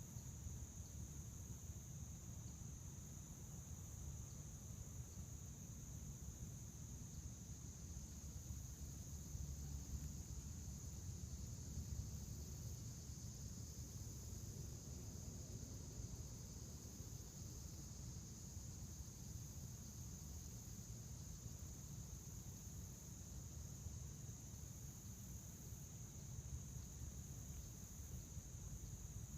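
A steady chorus of crickets: one unbroken high-pitched trill, with a low rumble underneath.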